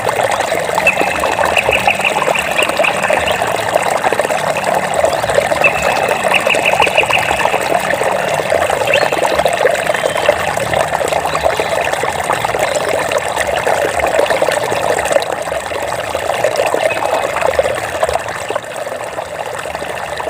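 Running water trickling and splashing steadily. A short, rapid, high trill sounds twice in the first seven seconds.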